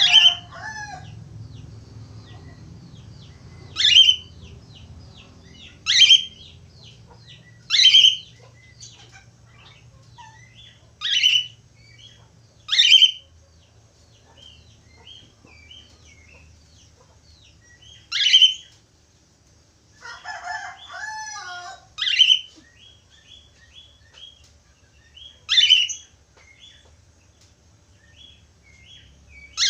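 Budgerigars calling: loud, sharp falling chirps come about every two seconds, with softer twittering between them. About twenty seconds in there is a short burst of warbling chatter.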